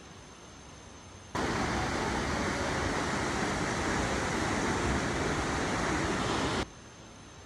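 Waterfall: a loud, steady rush of falling water that cuts in about a second in and stops abruptly near the end.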